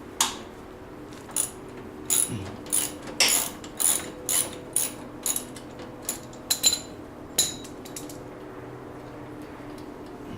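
Hand socket ratchet on a 13 mm bolt, clicking in short strokes about a dozen times, then stopping after about seven seconds.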